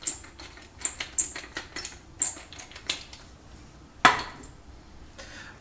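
Pepper mill being twisted, grinding black pepper in a run of clicking strokes, about three a second, that stops about three seconds in. A single sharp knock follows about four seconds in.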